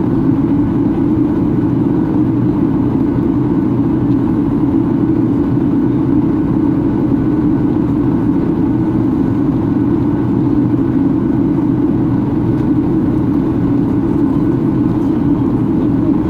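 Steady cabin noise of a Boeing 737-800 airliner: the hum of its CFM56 jet engines mixed with airflow over the fuselage, heard from inside the passenger cabin, even in level throughout.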